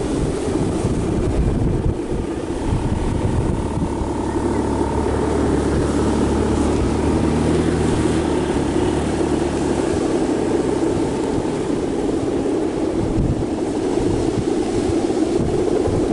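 Strong wind buffeting the microphone in a steady low rumble, with an engine humming steadily underneath from about four to ten seconds in.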